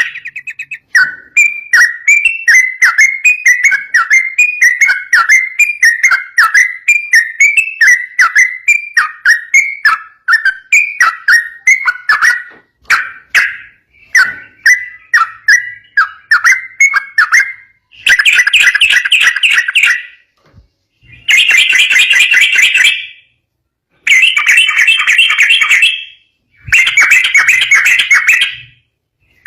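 Yellow-vented bulbul singing in a fast, continuous chatter of short whistled notes, several a second. In the second half it breaks into four dense two-second bursts with brief pauses between them.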